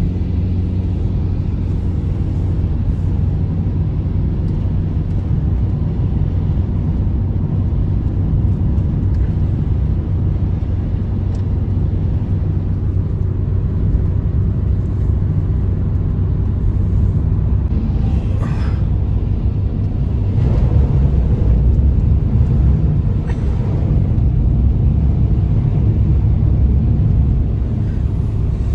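Blizzard wind blowing: a steady, deep rumble that swells in a stronger gust about two-thirds of the way through.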